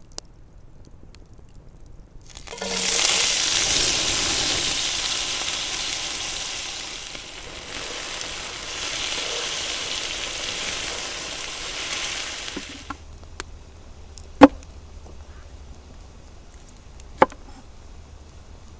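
Food hitting hot oil in a pan and sizzling loudly. The sizzle starts suddenly a couple of seconds in, dies down over about ten seconds, then stops. Later come two sharp clicks.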